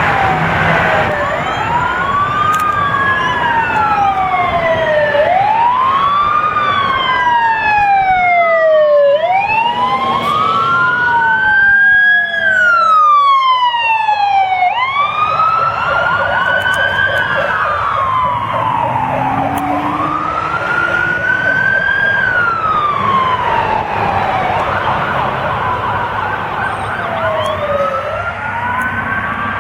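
Emergency vehicle siren on a wail, each cycle rising quickly in pitch and then falling slowly, repeating about every four to five seconds. In the middle a second siren's wail overlaps it.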